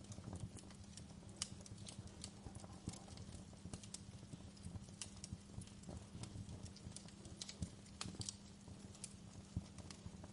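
Wood fire crackling: irregular sharp pops and snaps, a few louder than the rest, over a steady low rumble of the burning fire.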